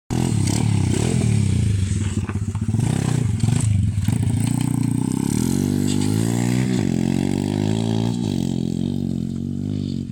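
Lifan 110cc pit bike's small single-cylinder four-stroke engine running, with a few small rises and falls in pitch about two-thirds of the way through as the throttle is blipped.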